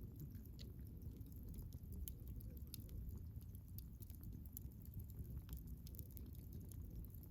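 Wood fire burning with a soft low rumble and a steady scatter of irregular sharp crackles and pops.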